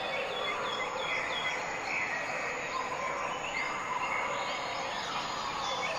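Small birds chirping and twittering, short repeated notes over a steady background hiss.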